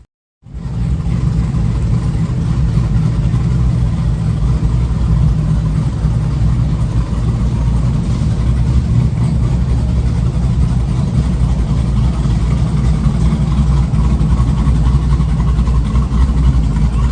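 A vehicle engine running steadily at idle, a low, even sound that holds its pitch throughout, starting just after a brief silent gap.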